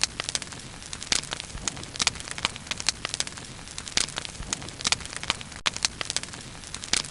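Bonfire crackling: irregular sharp snaps and pops, several a second, over a steady soft hiss.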